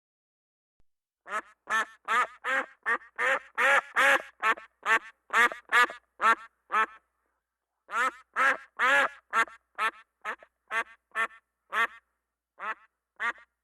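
A duck quacking in two long runs of rapid quacks, about three a second, with a pause of about a second between the runs; the second run slows and thins out near the end.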